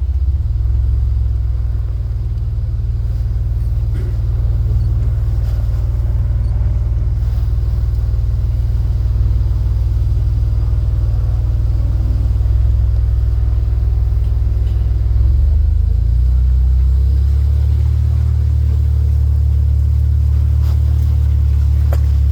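Steady low engine drone of the tour vehicle being ridden, with a step in pitch about fifteen seconds in, as if it changes speed or load.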